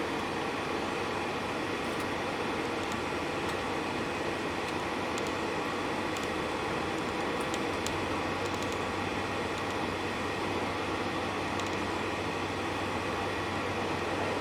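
Steady engine and road noise inside a moving bus, with a low hum that comes in about halfway through and a few faint clicks or rattles.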